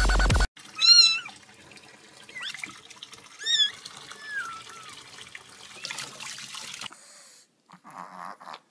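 A cat meowing: a loud meow about a second in, another about three and a half seconds in, and a few shorter, quieter calls between, over a faint steady hiss.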